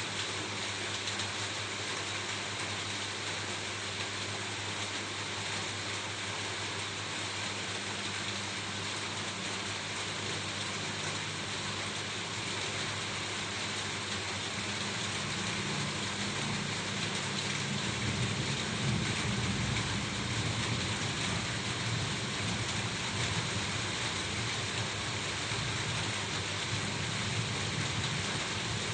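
Steady rain falling on a roof, an even hiss of drops. About two-thirds of the way through, a low rumble swells in underneath and carries on.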